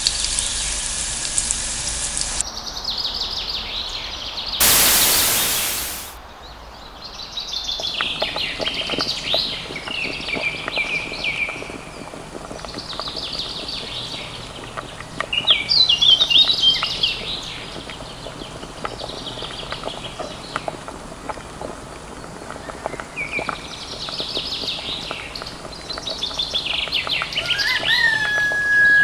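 Birds chirping and calling in repeated short bursts, with a brief loud rush of hissing noise about five seconds in.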